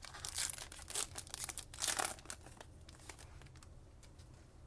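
Foil trading-card pack wrapper crinkling and tearing as it is ripped open, in several quick crackly bursts over the first two seconds or so, then quiet handling.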